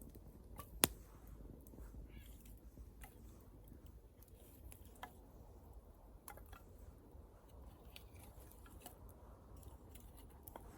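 Wood fire crackling: scattered small pops and ticks, with one sharp loud snap about a second in.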